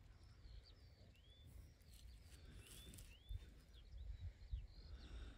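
Faint birdsong: short rising chirps repeated about once a second, over a low rumble on the microphone.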